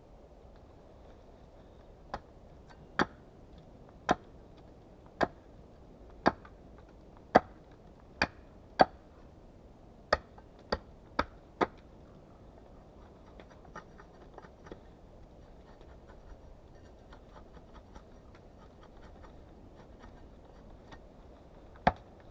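Sharp knocks of a hand tool striking wood, about one blow a second for some ten seconds, then a few faint taps and one more knock near the end.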